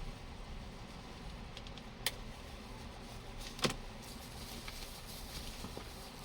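Plastic parts of a laser printer drum cartridge being handled as it is taken apart, with two sharp clicks about a second and a half apart, the second louder, and a few faint ticks.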